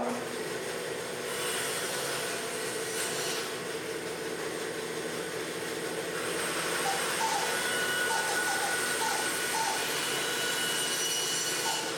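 Workshop machine running steadily: a motor hum under a constant rushing noise.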